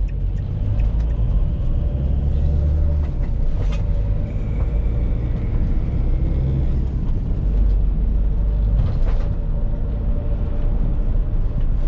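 Van engine running and road noise heard from inside the cab while driving at a steady pace. A faint steady whine runs underneath, which the driver puts down to the alternator.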